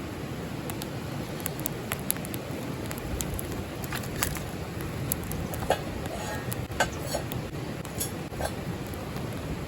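Wood fire crackling with scattered sharp snaps, and a few light clinks, as of cookware or utensils being handled, about the middle of the stretch.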